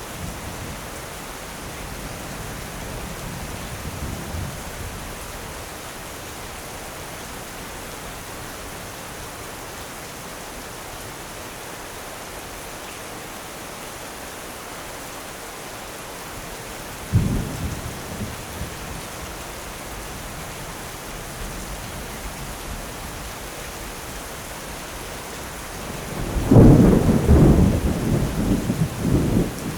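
Steady heavy rain with thunder: a sharp crack about halfway through, then a longer, louder rolling peal of thunder near the end.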